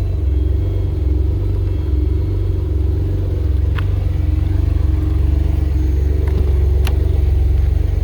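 Noble M12 GTO-3R's twin-turbo Ford Duratec V6 idling steadily at a low, even pitch, with a few light clicks in the second half.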